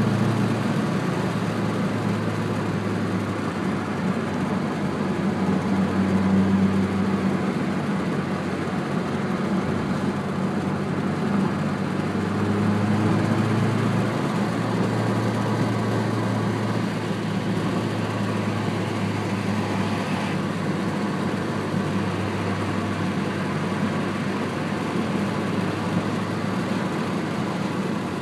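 2006 Subaru Impreza's flat-four engine running through a TurboXS aftermarket exhaust with a steady exhaust note. Its level swells slightly a few times.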